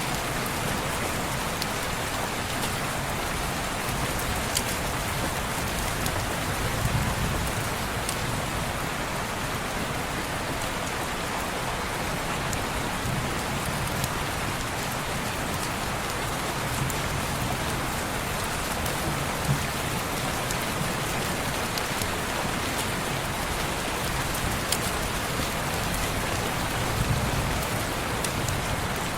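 Steady rain falling on a window pane, an even hiss with scattered sharp little clicks.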